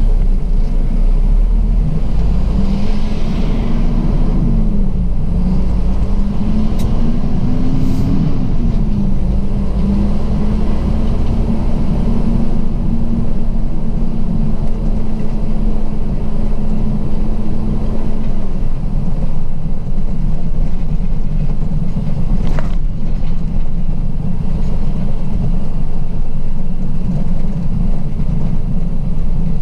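Semi truck's diesel engine running under way, a low rumble throughout. Its engine note rises and falls twice, then holds steady before sinking back into the rumble. There is one sharp click late on.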